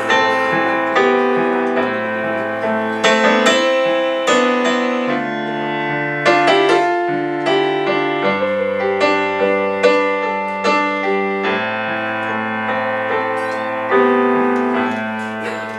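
Piano playing a slow song introduction: chords struck about once a second over held bass notes that change every few seconds.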